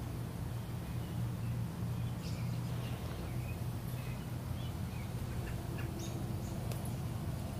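A steady low hum with faint, short bird chirps scattered through the middle and latter part.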